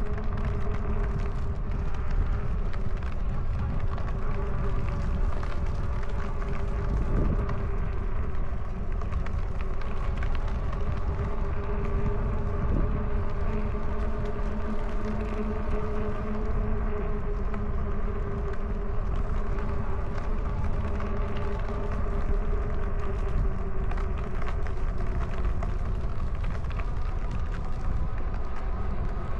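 E-bike hub motor whining steadily while riding, with wind rumbling on the microphone.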